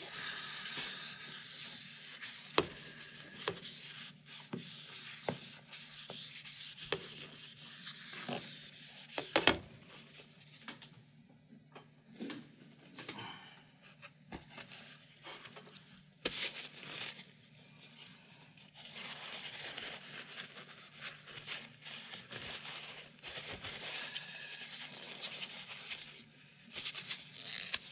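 Wiping with alcohol by hand: steady rubbing in long stretches with a quieter pause in the middle, and a few light knocks.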